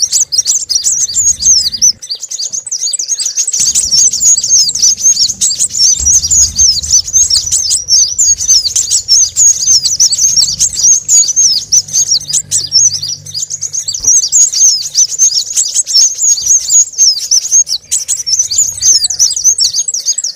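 Dense, unbroken, high-pitched chirping of many small birds, overlapping fast twitters: a bird-lure (pikat) recording of small-bird calls used to draw in sunbirds.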